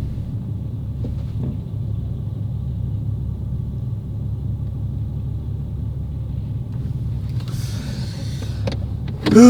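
Car engine idling with a steady low rumble, and a brief rush of noise about eight seconds in.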